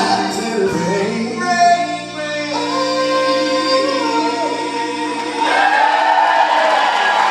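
Live soul band and singers hold the final sung chord of a song, then audience applause and cheering break out about two-thirds of the way through.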